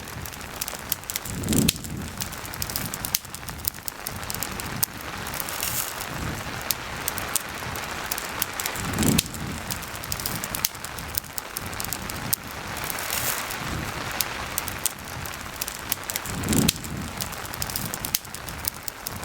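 Steady rain mixed with a crackling campfire, many small sharp pops over the hiss of the rain. A louder low thud comes three times, evenly spaced about seven and a half seconds apart.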